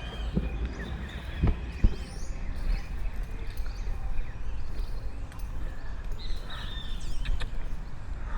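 Birds chirping over a steady low rumble of wind and movement on a body-mounted GoPro, with two sharp thumps about a second and a half in.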